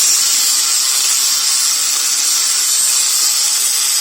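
Steady, loud hiss of a compressed-air jet from an air tool.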